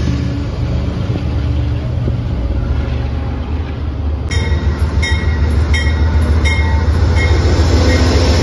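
A train running past with a heavy, steady rumble. From about halfway, sharp metallic clicks with a brief ring come at an even pace, about one every 0.7 seconds.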